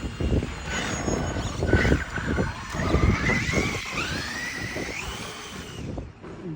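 Traxxas RC car's motor whining as the car drives, rising in pitch over a couple of seconds in the middle, over a gusty low rumble.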